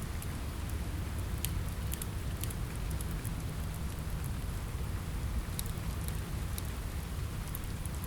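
Steady rain on a window mixed with a crackling wood fire: an even, low rush with scattered sharp pops and crackles.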